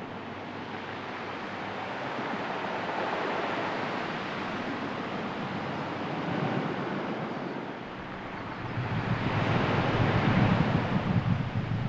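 Sea waves washing on the shore, a steady rush of surf with some wind, swelling into a louder breaking wave about nine seconds in.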